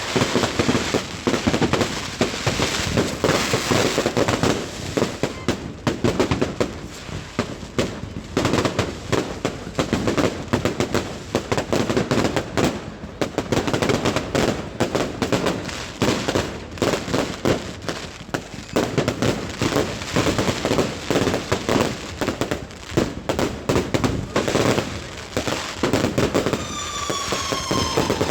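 Fireworks going off in a rapid, continuous run of bangs and crackles, with a falling whistle near the end.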